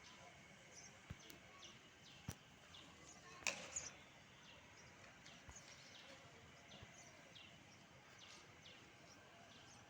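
Small birds cheeping: many short, high, downward-falling chirps repeated every half second or so, with a few sharp clicks, the loudest about three and a half seconds in.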